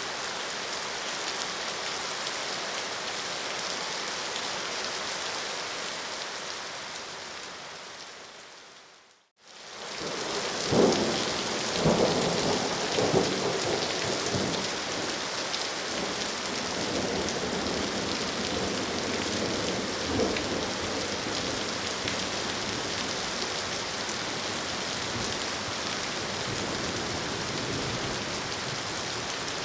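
Steady rain hiss fades out to silence about nine seconds in, then fades back in as a thunderstorm. Several loud rolls of thunder come in the next few seconds and another later, over continuing rain.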